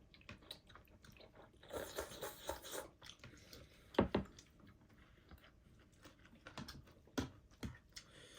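A person chewing noodles close to the microphone: wet chewing with irregular clicks and smacks, the loudest about four seconds in and twice near the end.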